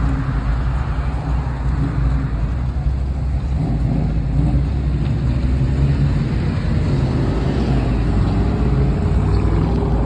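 A car's engine and exhaust with a deep, steady rumble, rising in pitch over the last few seconds as it pulls away or accelerates.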